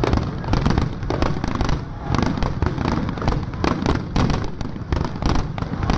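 Aerial fireworks going off in a rapid, dense barrage: many sharp bangs and crackles in quick succession over a continuous low rumble.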